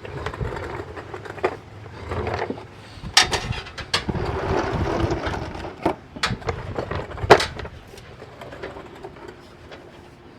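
Irregular metallic knocks and clanks from hand tools and parts during work on a pickup's engine bay, with a rustle in between. Two sharp knocks, about three seconds in and again near the end, are the loudest.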